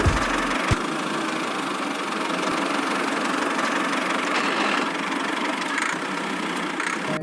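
Small motor of a miniature toy tractor running steadily, with a short click about 0.7 seconds in.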